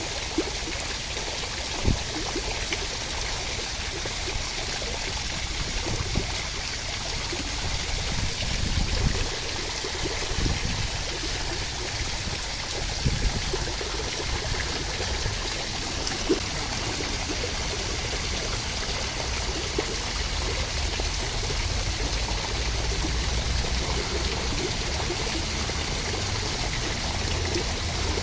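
Steady rain with running water, an even unbroken rush, with a few brief louder taps.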